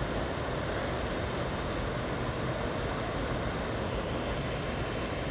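Waterfall rushing over a ledge into a creek: a steady, even roar of falling water.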